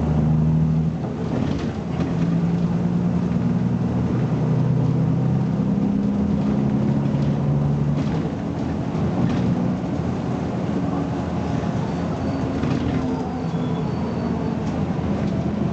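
BMC Belde 220-SLF city bus's diesel engine running as the bus drives, its note shifting up and down, with a brief dip about a second in.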